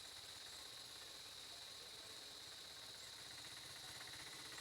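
Quiet outdoor ambience: a faint, steady, high-pitched buzz over an even hiss.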